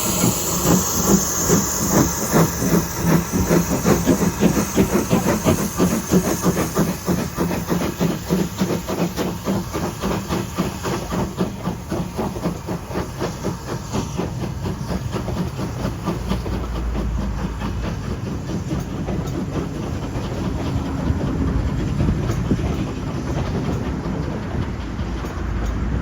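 Two Standard Class 2MT steam locomotives double-heading as they pull away, their exhaust beats coming quicker as the train gathers speed. A hiss of steam fades over the first few seconds, leaving the beats and a steadier rumble of the train.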